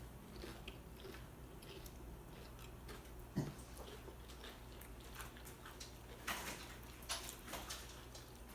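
Close-up eating sounds: chips crunching and chewing, with scattered crisp crunches that grow louder and denser past the middle. A single dull knock about three and a half seconds in is the loudest sound.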